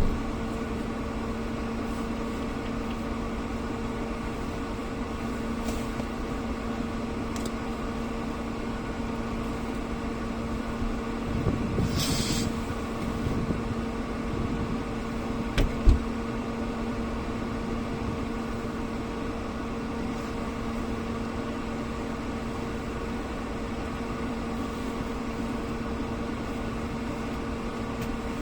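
A steady mechanical hum with a constant low tone. About twelve seconds in there is a brief hiss, and a single knock comes a few seconds later.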